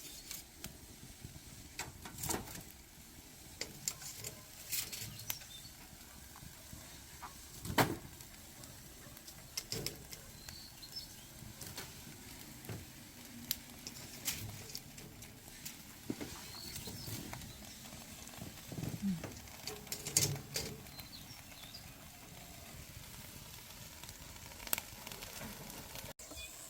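Wood fire crackling, with irregular sharp pops and clicks over a steady low hiss.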